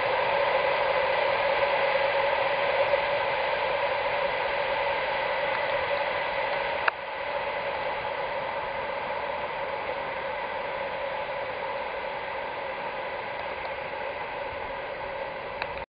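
Steel wheels of a long train of railway tank wagons rolling on the rails, a steady clattering noise with a ringing tone running through it, slowly fading as the end of the train draws away. There is one sharp click about seven seconds in, and the sound is quieter after it.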